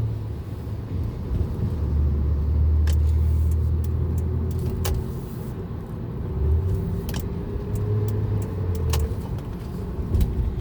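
2006 Honda Accord V6 heard from inside the cabin while driving in slow traffic: a low engine and road drone, with a faint whine slowly rising in pitch in the second half and a few sharp clicks. The owner fears the whine comes from a bearing in the torque converter; others have suggested the exhaust A-pipe or a transmission mount.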